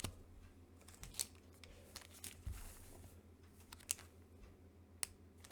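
Faint rustling and a few sharp little clicks of comic books being handled, the sharpest click near the end.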